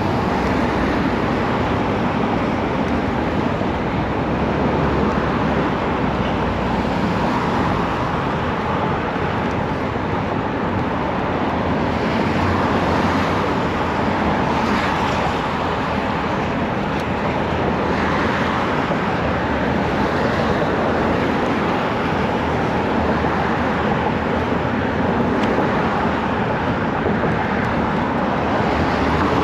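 Steady rush of wind and road noise picked up by a chest-mounted camera while cycling, with traffic running alongside.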